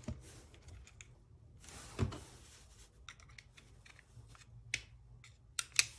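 Car door lock mechanism being tried by hand: a soft thump about two seconds in, then a few sharp clicks near the end, as the repaired lock is tested while locked.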